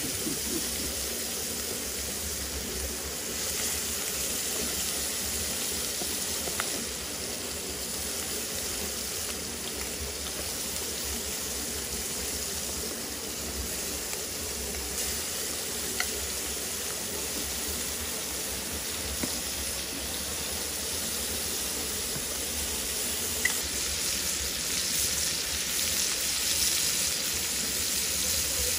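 Shrimp frying in olive oil in a pan, a steady sizzling hiss, with a few sharp clicks of a metal fork against the pan as more shrimp are laid in.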